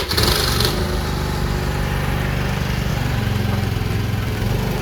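Honda Activa scooter's single-cylinder four-stroke engine running steadily as the scooter is ridden, under a steady rush of noise.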